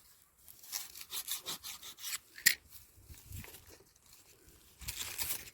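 Irregular rustling and scraping, like plants or leaves being brushed or handled, with a sharp crack about two and a half seconds in and a louder rustle near the end.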